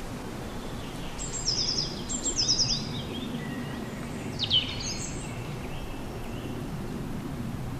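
High, bird chirps over a steady outdoor background hiss: two quick trilled phrases about one and a half to three seconds in, then a sharp falling call a little past the middle.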